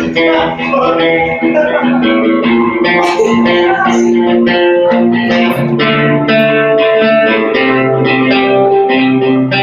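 Guitar playing live: an instrumental outro of plucked, ringing chords with no singing.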